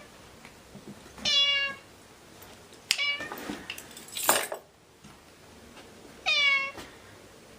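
A kitten meowing three times, high-pitched: one call about a second in, a short one about three seconds in, and a longer one near the end. Between the second and third call comes a short burst of noise, briefly the loudest sound.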